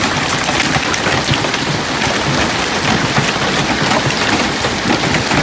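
Heavy hail, stones approaching softball size, pelting the ground and vehicles in a dense, continuous clatter of hits, hard enough to be heard denting a car's hood.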